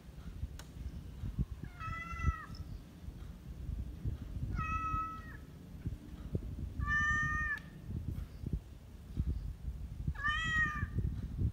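A kitten meowing four times, short high calls a couple of seconds apart, over a low background rumble.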